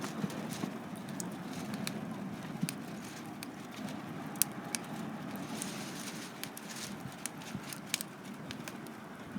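Wood campfire burning: a steady low hiss of the flames with scattered sharp crackles and pops from the burning wood.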